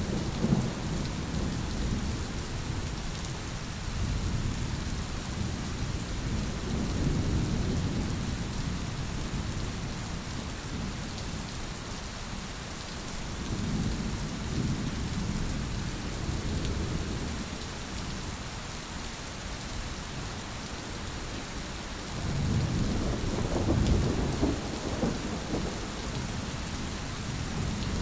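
Thunderstorm: steady rain hissing, with low thunder rumbling and rolling in long swells, the strongest one building about three quarters of the way through.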